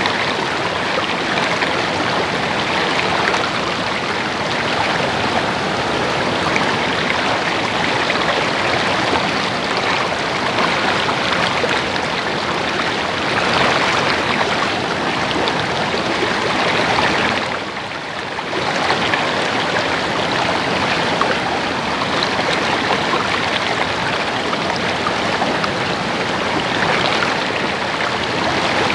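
Stream water babbling and rushing steadily over rocks, dipping in level for about a second around eighteen seconds in.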